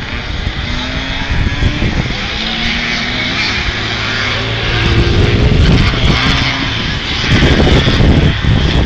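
Vintage two-stroke motocross bikes racing round the track, engines revving up and down as they accelerate, louder about halfway through and again near the end.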